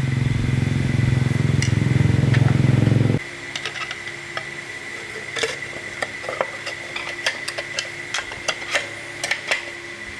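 A motor runs steadily at a low pitch, then cuts off suddenly about three seconds in. Light metallic clicks and taps of tools being handled follow, over a faint steady high whine.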